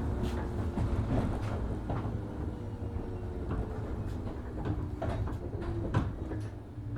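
Interior running sound of a 103 series 1500 subseries electric train slowing down: steady rumble with rail clicks and knocks over a faint motor whine that falls in pitch, easing toward a stop near the end.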